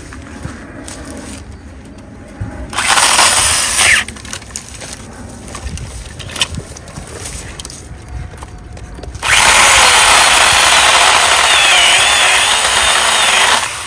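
Small battery-powered pruning saw cutting through a tree branch: a short cut of about a second, then a longer cut of about four and a half seconds, the motor's whine wavering as the blade works through the wood.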